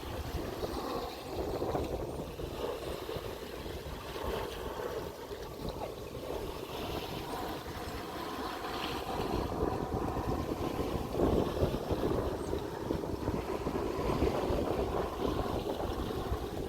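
Wind buffeting the microphone over a steady low rumble, growing a little louder in the second half.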